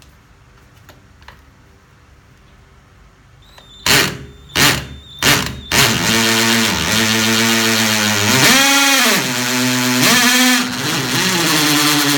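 DeWALT DCD700 36 V cordless drill, with a 775 brushless motor, drilling into concrete. About four seconds in, the trigger is blipped four times in quick succession, then held, and the motor runs on with its pitch dipping and recovering as the bit loads up in the hole.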